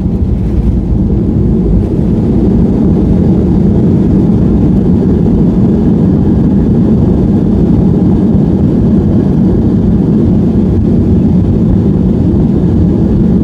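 Boeing 737 cabin noise from a window seat: the engines and rushing air make a loud, steady low rumble that rises slightly about two seconds in.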